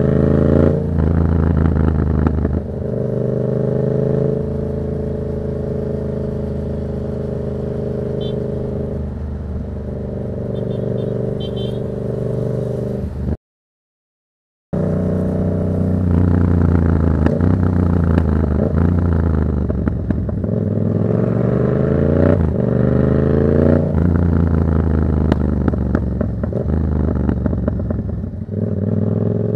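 Yamaha MT-07's 689 cc parallel-twin engine through a Black Widow exhaust with the dB killer removed, running under way. It holds a fairly steady pitch for the first half, cuts to about a second of dead silence near the middle, then revs up and drops back several times as it accelerates through the gears.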